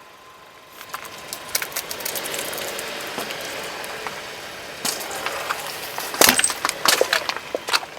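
Objects crunching and cracking as they are crushed under a car's tyre. A steady hiss gives way, from about five seconds in, to a run of sharp cracks, the loudest just after six seconds.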